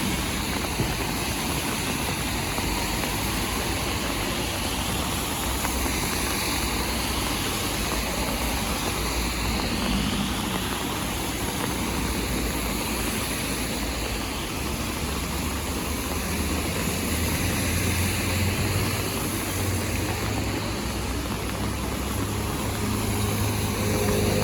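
Steady hiss of heavy rain, with a low rumble underneath.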